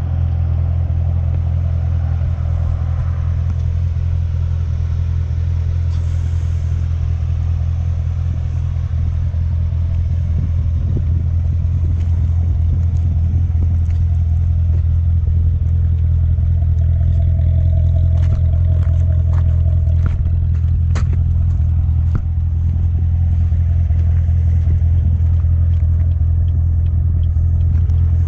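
2016 Corvette Z06's supercharged 6.2-litre V8 running at a steady, unchanging pitch with a deep low drone. A few sharp clicks come about two-thirds of the way in.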